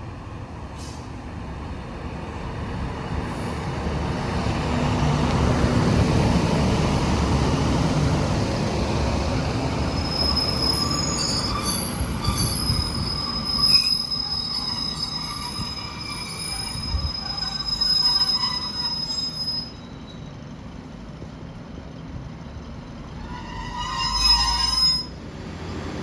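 A train runs in with a rumble that builds over the first few seconds, then its steel wheels squeal with high, shifting tones for about ten seconds. The squeal cuts off sharply, and a short, loud, pitched tone follows near the end.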